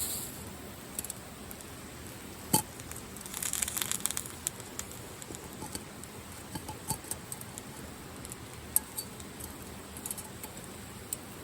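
Steady hiss of rain and the river with scattered small clicks and taps, a sharp knock about two and a half seconds in, and a brief crackling rustle just after it.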